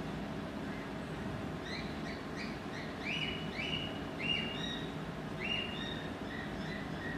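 Birds calling in a run of short repeated chirps, about two or three a second, starting a couple of seconds in, over a steady low background rumble.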